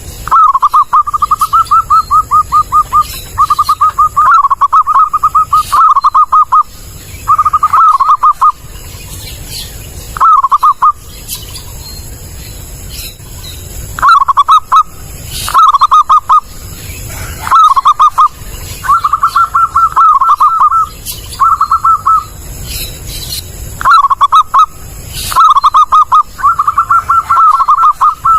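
Zebra dove (perkutut) cooing, loud and clear: over a dozen phrases of rapid staccato notes, each lasting about half a second to two seconds, with short pauses between and a longer pause about ten seconds in.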